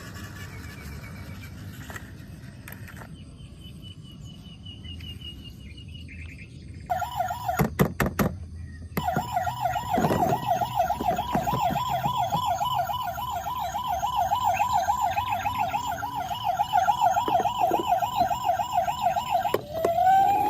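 Toy vehicle's electronic siren sounding a fast warble that starts about a third of the way in and runs on, with a few sharp clicks near its start and a short break just after.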